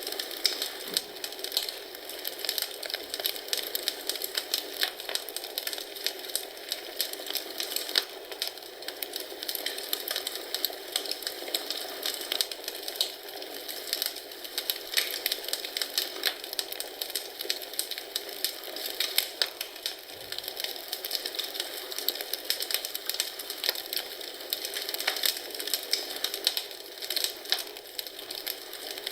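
Wood fire crackling in a fireplace: a steady stream of small pops and snaps over a soft hiss.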